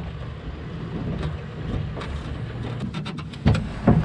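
A vehicle engine runs with a steady low rumble, and two sharp knocks come close together near the end.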